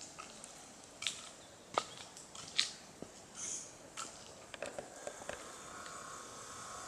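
Footsteps on a forest path: irregular crackles and snaps of twigs and leaf litter underfoot, a dozen or so short sharp sounds, with a faint steady high-pitched hum behind.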